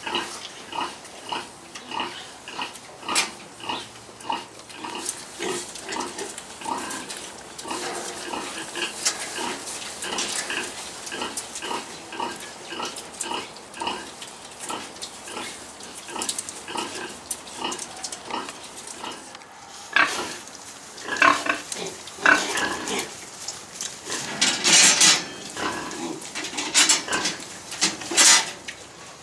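A sow grunting in a steady rhythm, about two short grunts a second, the nursing grunts of a sow suckling her piglets. From about twenty seconds in, louder, harsher noises break in over the grunting.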